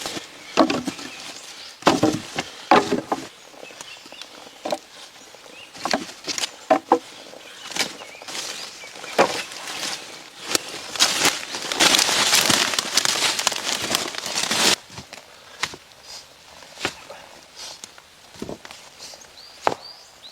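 Crunching and rustling in dry fallen leaves, with scattered knocks of wood, as someone moves about and handles branches. About halfway through there are a few seconds of steady, denser rustling.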